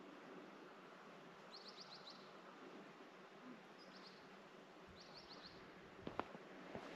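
Faint bird chirping: three short, quick runs of high notes over a quiet background hiss, followed by a few soft knocks near the end.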